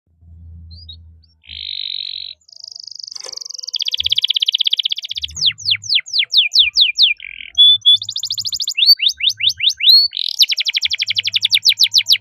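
Domestic canary singing loudly: buzzy rattling rolls, then quick series of downward-sweeping whistled notes at about five a second, alternating with fast trills.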